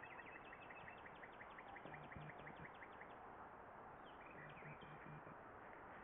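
Faint outdoor ambience: a bird gives a rapid, even run of short high chirps, about six a second, for the first three seconds, then a shorter chirping call about four seconds in, over a steady hiss.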